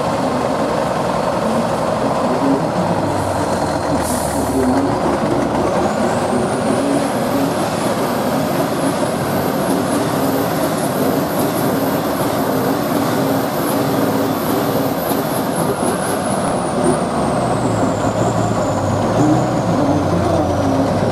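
Heavy truck engine running hard. A high whine climbs about six seconds in, wavers, and falls away over the last few seconds. A short hiss of air comes about four seconds in.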